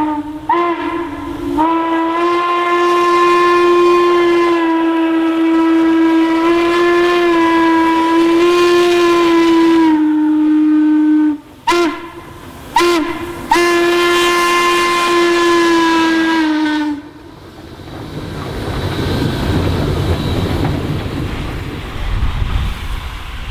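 Steam locomotive whistle blowing a long blast, two short toots about 12 and 13 seconds in, then another long blast that ends about 17 seconds in. The rumble of the train running past then builds.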